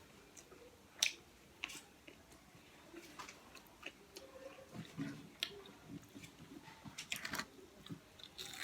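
A person chewing food close to the microphone: a mouth eating spicy chicken wings, with scattered short wet clicks and smacks.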